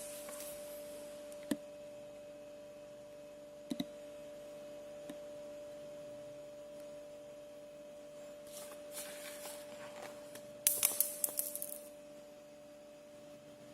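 Handling of a plastic action figure and its parts: a few scattered clicks, a brief rustle, then a quick run of louder clicks near the end, over a steady electrical hum.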